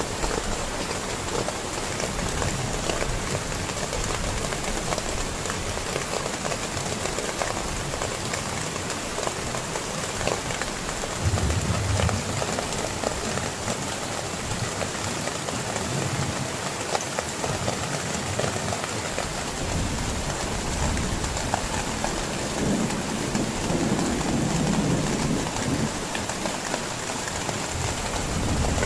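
Heavy rain falling steadily, countless drops pattering on a surface, with low rumbles about eleven seconds in and again near twenty-four seconds.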